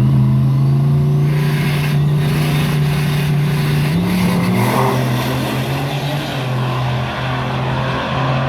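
A motor vehicle's engine running steadily, its pitch shifting briefly about four seconds in before settling a little lower.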